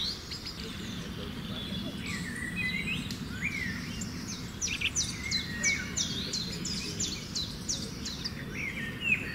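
Several rainforest birds chirping and calling, a dense run of short, quick, mostly falling notes, over a steady low background hum.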